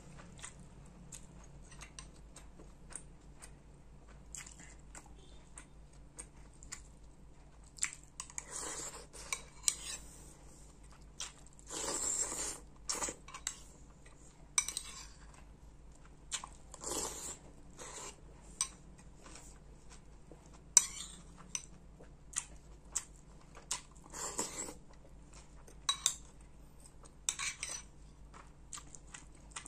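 Metal spoon clicking and scraping against a soup bowl, with chewing, as a bowl of soto ayam is eaten fast. Several longer rushes of noise, each about a second, come in among the clicks.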